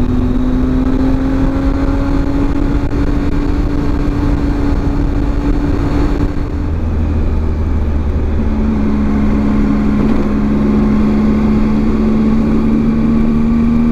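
Triumph Tiger 800 XRt's three-cylinder engine running at road speed, with a steady rush of wind. The engine note climbs slightly, then changes pitch about halfway through, as with a gear change.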